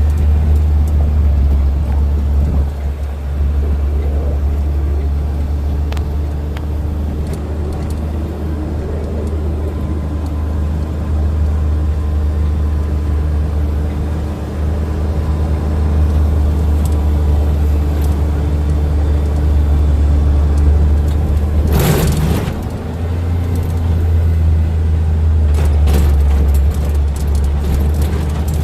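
Steady low rumble of a moving tour vehicle, engine and road noise heard from aboard, with a brief loud knock about three-quarters of the way through.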